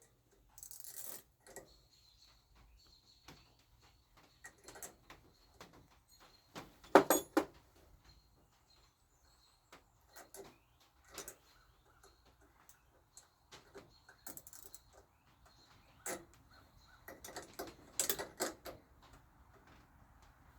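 Scattered clicks and metallic clinks of hand tools on engine parts while the mower engine's loose valve stud is worked on, with the sharpest knock about seven seconds in and a flurry of clatter near the end.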